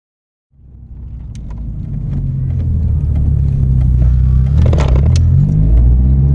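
A car's engine running, heard from inside the cabin as a low steady hum. It fades in after a brief silence, and there are a few faint clicks about five seconds in.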